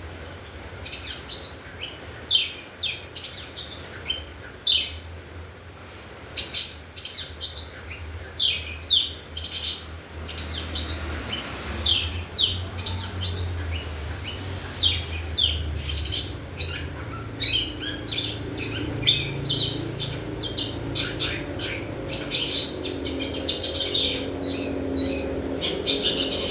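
Pet long-tailed shrike (pentet) chirping almost without pause: a dense run of short, sharp notes, each falling quickly in pitch.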